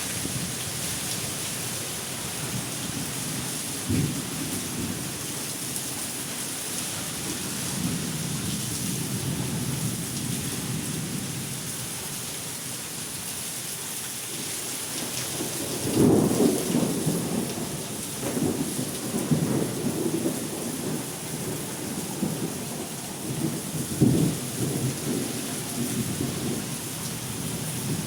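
Strong wind gusts in a storm: a steady hiss with irregular rumbling surges, the strongest about halfway through and again near the end.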